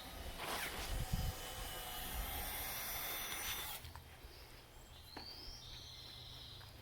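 Outdoor background: a steady rushing noise that cuts off abruptly a little past halfway. Then a songbird gives one call about five seconds in, a rising note running into a buzzy trill.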